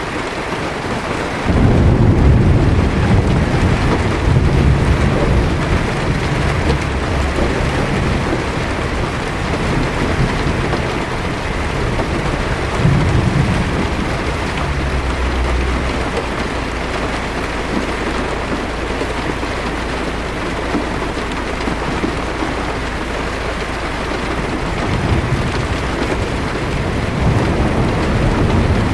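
Steady heavy rain hitting a car's windshield and roof, with low thunder rumbling: a rumble breaks in suddenly about a second and a half in and rolls on, swelling again around halfway and near the end.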